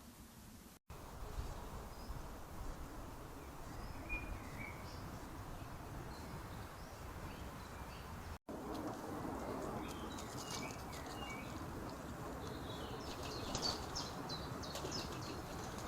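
Small birds chirping over a steady outdoor hiss of trail-camera background noise: scattered short calls at first, then a busier run of chirps near the end. The sound cuts out completely twice for an instant, about a second in and again past the halfway point, where one camera clip ends and the next begins.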